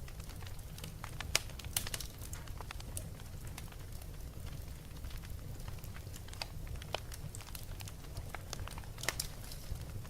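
Fire crackling: irregular sharp pops and snaps over a steady low rumble, with louder pops about a second and a half in and again near the end.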